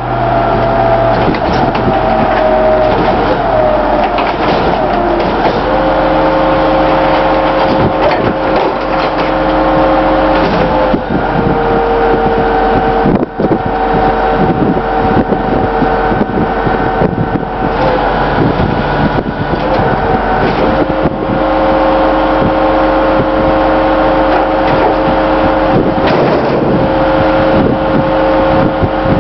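Garbage truck engine running as the truck backs up, its note holding steady and then stepping between a few pitch levels several times, with scattered knocks and rattles.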